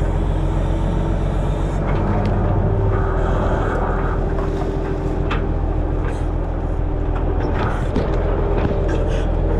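Heavy diesel engine running steadily under hydraulic load while logs are handled, with a few sharp knocks in the second half.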